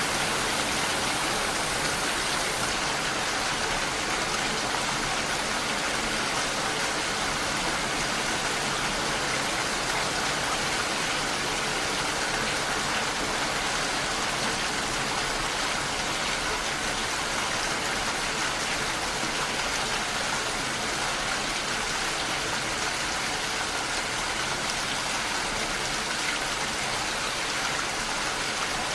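Steady, even rain falling, a continuous hiss of drops.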